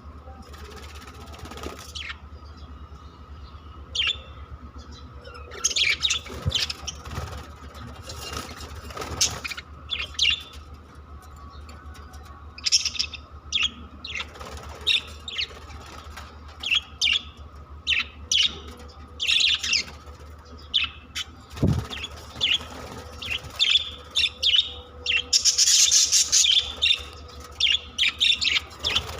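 Pet budgerigars chirping in short, quick calls, sparse at first and busier in the second half, over a steady background hum.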